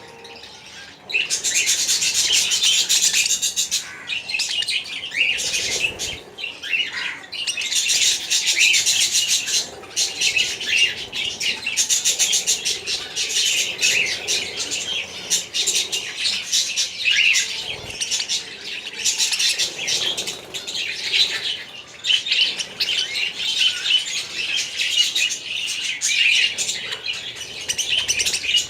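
Many small birds chirping and chattering together in dense high-pitched waves of a few seconds each, with short lulls between.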